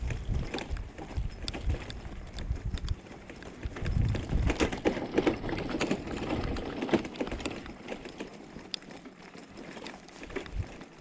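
Bicycle riding over a bumpy street, with irregular rattling clicks and a low uneven rumble that thin out in the second half.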